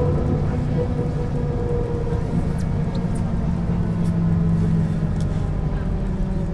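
1996 Setra S 315 UL bus's diesel engine and ZF gearbox running on the move, a steady drone. A low hum strengthens from about two seconds in as a higher tone fades.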